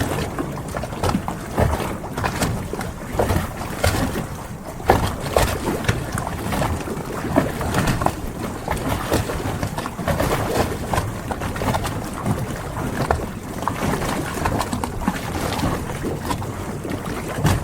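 Harbor ambience: a steady wash of water and wind with many irregular small knocks and slaps.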